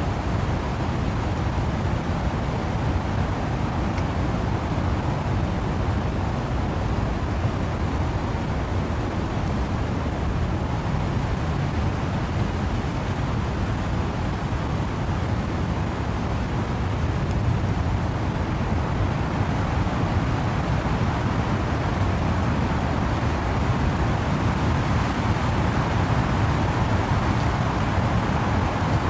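Steady rain and wind rushing through trees, a continuous noise with a deep low rumble, swelling slightly brighter near the end.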